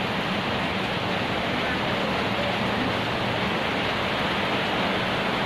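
Heavy rain falling: a steady, even hiss with no break.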